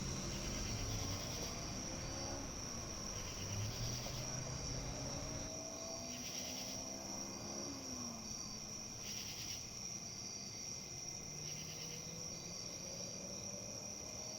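A steady, high-pitched insect chorus that keeps on without a break, with a softer trill swelling every couple of seconds. Under it runs a faint low rumble whose pitch slowly slides.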